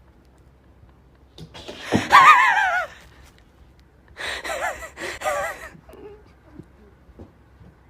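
Two long, high-pitched wavering vocal cries. The first starts about a second and a half in, is the louder of the two and falls in pitch. The second follows about a second later, with a few faint knocks after it.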